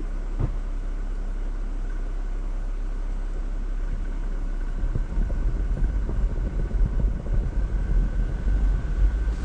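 Jeep Wrangler driving slowly along an off-road trail: a steady low engine and drivetrain rumble, with a single knock about half a second in. From about halfway through, the rumble grows louder and uneven.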